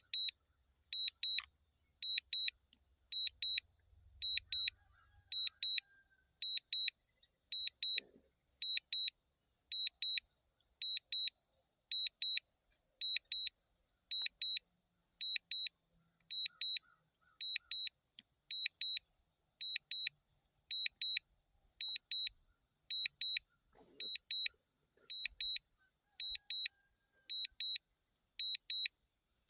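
High-pitched double beeps repeating about once a second: the DJI Mini 4K flight app's low-battery alarm, sounding as the drone's battery runs down toward 0%.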